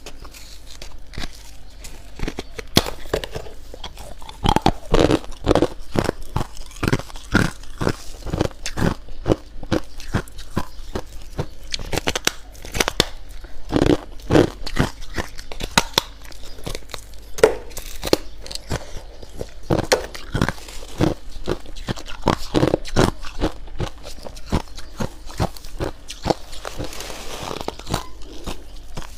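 A person biting and chewing humidifier frost: a long run of irregular crisp crunches, some soft and some hard, growing dense about two seconds in.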